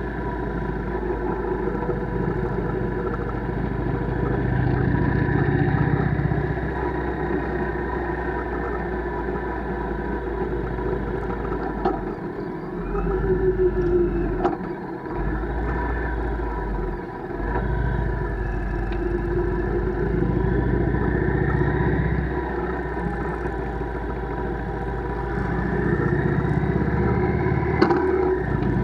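Steady riding noise from a bike on the move: a continuous low rumble with wind on the microphone and a constant hum. The rumble dips briefly a few times about halfway through.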